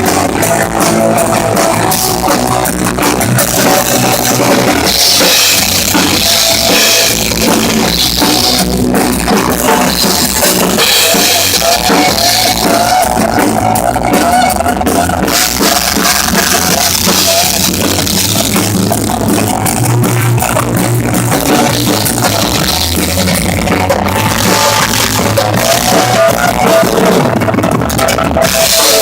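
Loud rock music with a full drum kit, bass drum and cymbals under a sustained melodic line, playing without a break.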